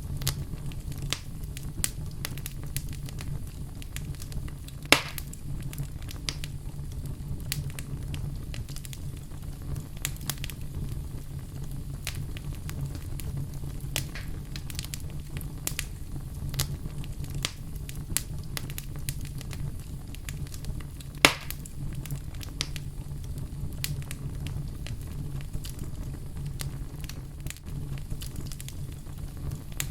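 Fire crackling in a fireplace, with a steady low rumble under many small crackles. Two louder, sharp pops come about five seconds in and again about twenty-one seconds in.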